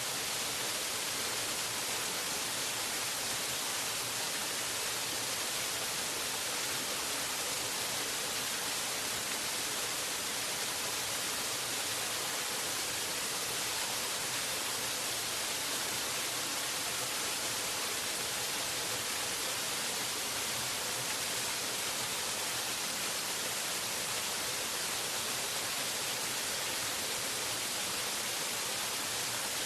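Waterfall: a steady, even rush of falling water, a hiss strongest in the high range with little bass, unchanging throughout.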